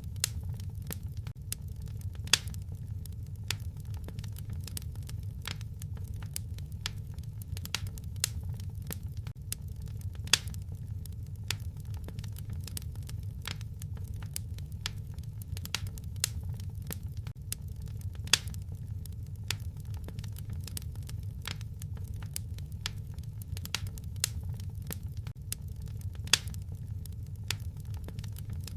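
Fireplace fire crackling: a steady low rumble of flames with many sharp, irregular pops, a few of them louder than the rest.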